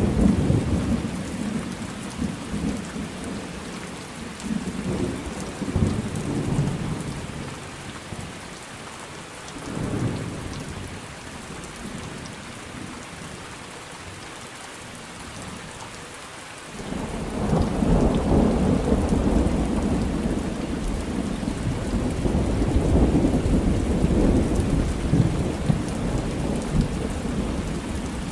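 Thunderstorm: steady rain hiss with rolling thunder. A few deep rumbles come early and again about a third of the way in, then a lull with rain alone. A long, loud rumble of thunder begins about two-thirds of the way through and keeps rolling.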